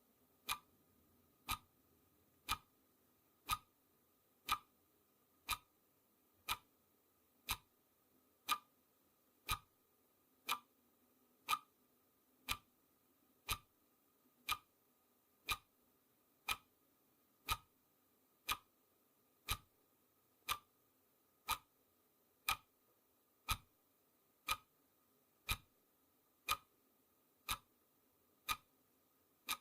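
Clock ticking steadily, one sharp tick each second, each tick with a short ring.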